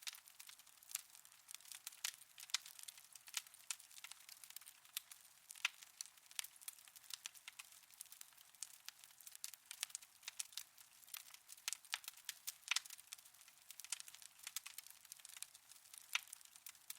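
Wood fire in a fireplace crackling: irregular sharp pops and snaps, several a second, over a faint hiss, with no low rumble.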